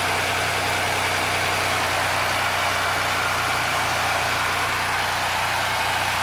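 1987 Oldsmobile Toronado's 3.8-litre V6 idling steadily, soon after its first start following new valve cover gaskets and spark plugs.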